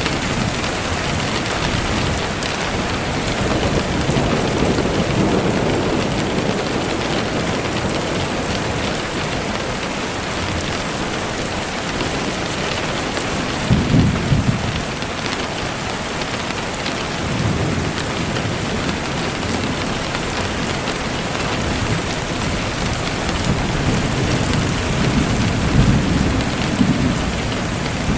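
Steady, heavy rain falling, with low rolling rumbles of thunder: one short, stronger rumble about halfway through and a longer one building near the end.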